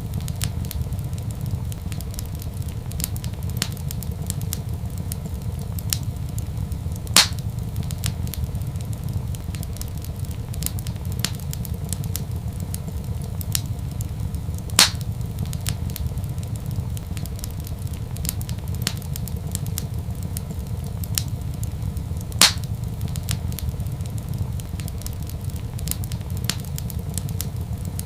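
Wood fire crackling in a fireplace: a steady low rumble under a scatter of small crackles, with three louder sharp pops at roughly even intervals.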